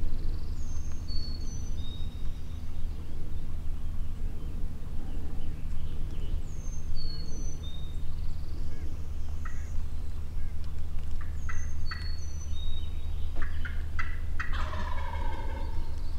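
Wild turkey gobbler gobbling once near the end, a falling, rattling call. A songbird repeats a short high phrase several times, and a few sharp clicks come before the gobble.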